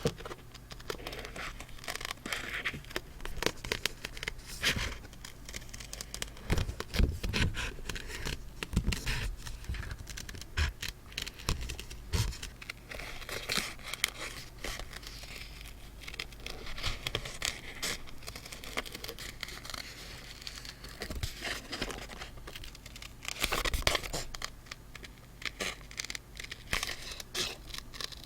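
Paper being handled for journal decorating: close, irregular crinkling and rustling of paper with small tearing sounds and light scratches, in quick uneven clusters.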